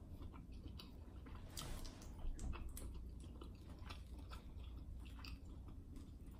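A person chewing a mouthful of boiled shrimp: an irregular run of soft mouth clicks and smacks.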